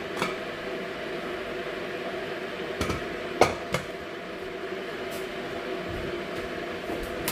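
A few short clinks and knocks of kitchenware being handled, the loudest about three and a half seconds in, over a steady humming background.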